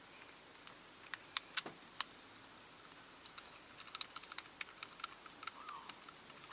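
Sharp plastic clicks and small rattling ticks of a GoPro chest harness being clipped on and the camera fitted into its mount: a few separate clicks in the first two seconds, then a quick run of small ticks in the middle.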